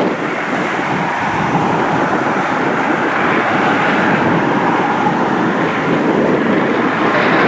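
Strong wind rushing across the microphone in a loud, steady roar, mixed with the distant roar of jet airliners at the airport. It cuts off abruptly at the end.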